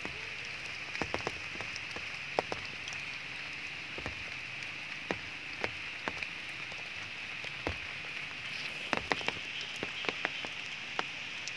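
Steady rain falling, with irregular sharp drop hits close by, a few of them louder.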